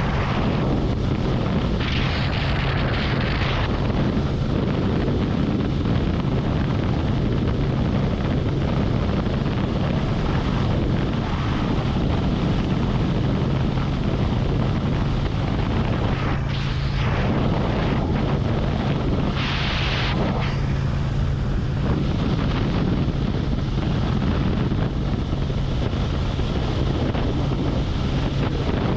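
Harley-Davidson Road Glide V-twin engine running steadily at highway cruising speed, with wind rushing over the microphone. Two brief hissy swells come through, one about two seconds in and one about two-thirds of the way through.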